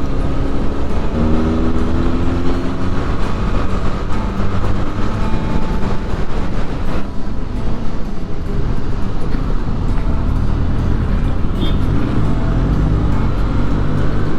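Benelli 502C's parallel-twin engine pulling under way, its note rising about a second in and rising and falling again near the end, under heavy wind rush on the rider's microphone.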